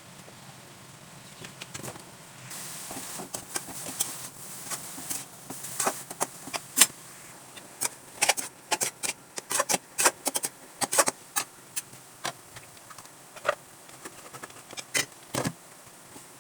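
Kitchen utensils clinking and tapping against cookware in quick, irregular sharp strokes, with a short hiss about three seconds in.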